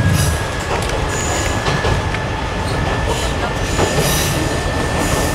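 Diesel railcar of the Kominato Railway running along the line, heard from inside the carriage. There is a steady low rumble, irregular clicks of the wheels over the rail joints, and a thin, steady wheel squeal.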